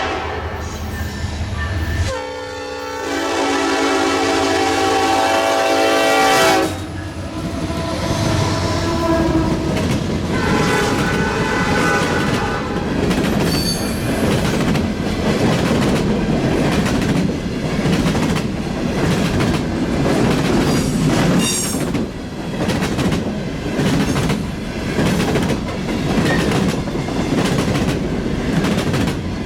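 A diesel locomotive's multi-note air horn sounds one long chord, ending about six seconds in. The train then rumbles past, with the wheels clicking over the rail joints and a couple of brief high wheel squeals.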